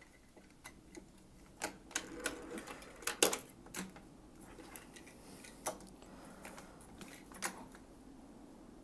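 Irregular clicks and light taps of small die-cast toy cars being handled, with a soft rustle among them about two to three seconds in.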